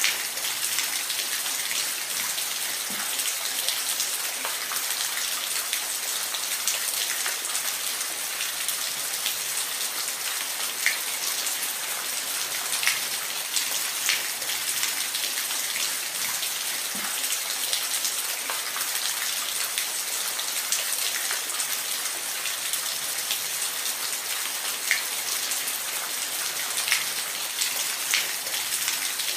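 Steady rain falling, a dense even hiss with scattered louder individual drops ticking on a surface.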